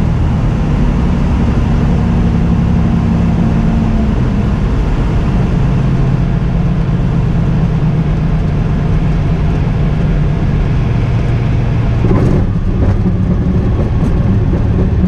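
Cessna 206 Turbo's piston engine and propeller running steadily as heard inside the cockpit, its pitch stepping a little a few times. A short crackle about twelve seconds in.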